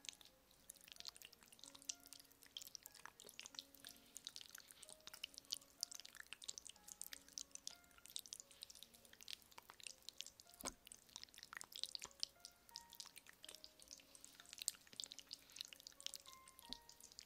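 Dense, rapid crackling and scratching clicks close to the microphone, typical of ASMR ear-massage tools such as a feather rod scratching and tapping on the mic, with one sharper knock about ten and a half seconds in. Faint soft background music plays underneath.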